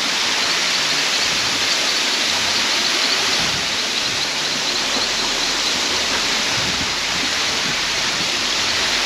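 Steady rushing of falling or flowing water, a dense, even hiss, with faint, high, repeated chirping in the background.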